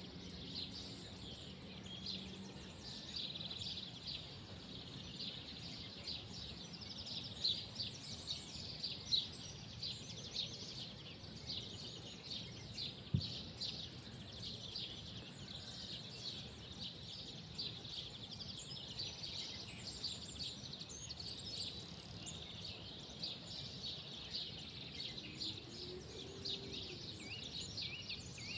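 Many small birds chirping and twittering continuously in a dense chorus, over a faint low background rumble.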